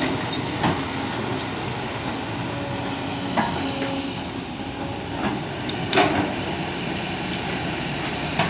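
Excavator running steadily, with a few sharp metallic knocks a couple of seconds apart.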